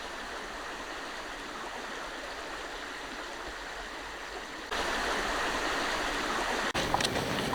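Steady rain falling, an even rushing hiss that gets abruptly louder about two-thirds of the way in, with a few sharp taps near the end.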